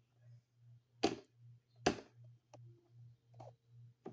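Hoover Convertible upright vacuum's height adjustment being worked by hand: two sharp plastic-and-metal clicks about a second apart, then a couple of fainter clicks. A low pulsing hum runs underneath.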